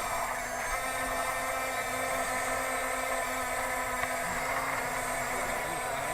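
Electric motors and gearboxes of a radio-controlled toy construction machine running with a steady whine.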